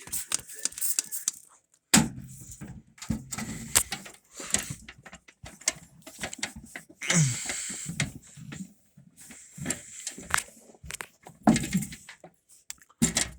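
Scattered clicks, knocks and rattles of hands fitting parts of a microwave oven back together, with a few brief low grunts or mutters in between.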